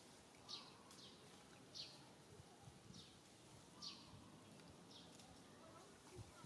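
Faint outdoor background with a bird giving short, high, downward chirps about once a second, five or so in a row.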